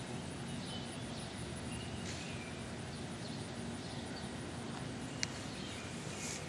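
Outdoor ambience: a steady low background hum with faint bird chirps, and one sharp click about five seconds in.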